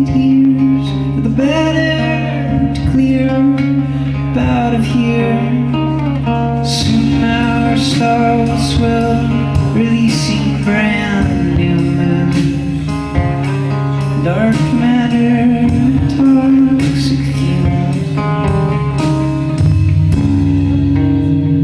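A live band playing: guitar over a steady bass line, with drum and cymbal hits joining about seven seconds in.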